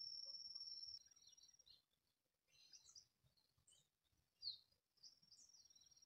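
Faint woodland ambience: a steady high insect call that stops about a second in, then a few short, high bird chirps, the loudest about four and a half seconds in. The insect call comes back faintly near the end.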